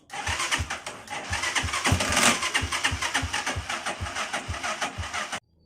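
Typhoon 150 motorcycle's electric starter cranking the engine, which turns over slowly with about three compression thumps a second and does not catch before it cuts off suddenly. This is the hard starting that the owner puts down to a dirty starter motor.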